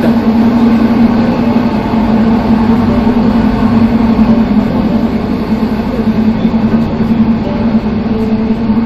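Steady rumble of a train heard from inside an old-style wooden passenger carriage, with one constant low drone running throughout.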